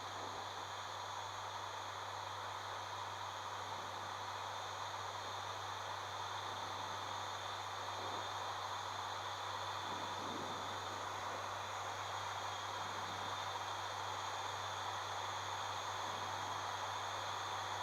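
Steady drone of an ATR 72-600's twin turboprop engines and propellers heard inside the cockpit: a constant low hum with a broad airflow hiss and faint high whines over it.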